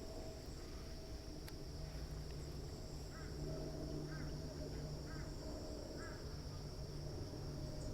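A bird calls four short times, about once a second, over a steady high insect drone and a low rumble of outdoor background noise.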